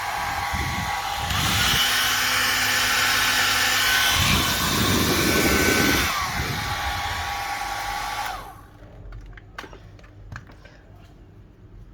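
Panasonic EH-ND21 1200 W hair dryer running, a steady rush of air with a whine. It gets louder about a second in, eases back about six seconds in, and cuts off about eight seconds in. A few light clicks follow.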